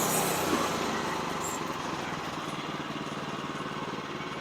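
Small engine running steadily, slowly getting a little fainter.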